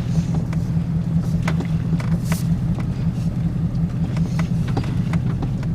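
Steady low hum and rumble of a car driving slowly, heard inside the cabin, with a few faint clicks.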